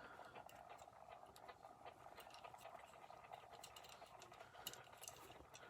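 Near silence: faint room tone with a few small, light clicks.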